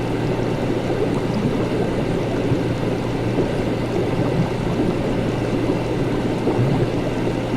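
Laboratory ambience: liquid bubbling and gurgling over a steady low electrical hum, without pause.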